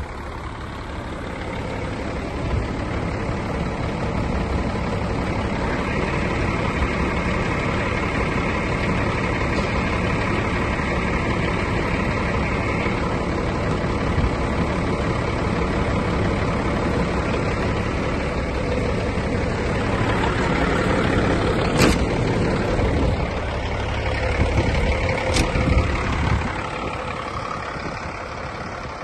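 Scania 94 truck's 260 hp diesel engine running steadily, swelling louder late on, with two short sharp sounds a few seconds apart before the engine sound eases off.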